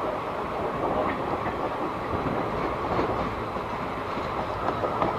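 Express train running on the track: a steady rumble of wheels on the rails, with a few faint clicks.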